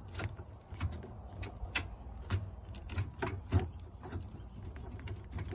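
Irregular light clicks and knocks over a steady low hum.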